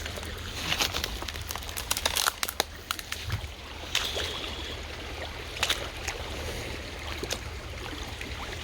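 Footsteps wading through shallow creek water, irregular splashes and crackles over the running stream.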